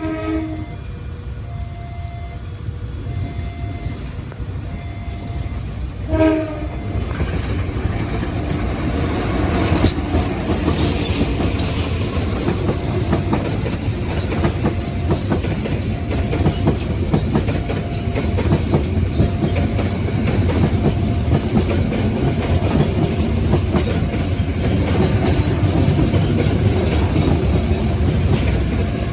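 Train passing: a short horn blast at the start and another about six seconds in, then a rising rumble and the clickety-clack of wheels over rail joints as the carriages go by. Underneath, a level-crossing warning alarm rings in a steady on-off pattern.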